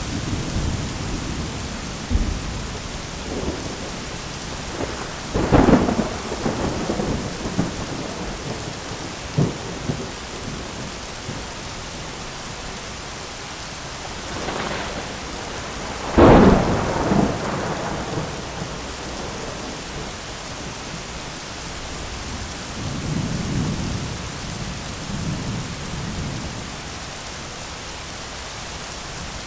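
Thunderstorm: steady rain with rolling thunder. Two loud claps of thunder with rumbling tails, about five seconds in and about sixteen seconds in, and a softer low rumble near the end.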